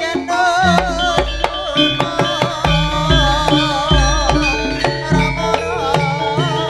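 Live Jaranan Sentherewe ensemble music played through a PA sound system: rapid hand-drum strokes and pitched metallic notes, with a few deep booms underneath and a wavering high melody line over the top.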